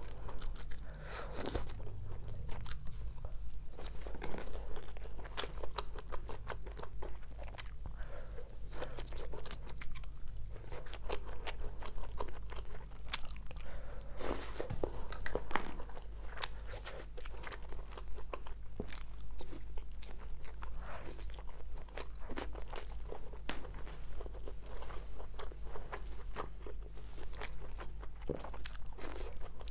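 Close-up chewing and biting of spiced skewered meats and sausages: a steady run of small crisp crunches and wet mouth clicks. A constant low hum lies underneath.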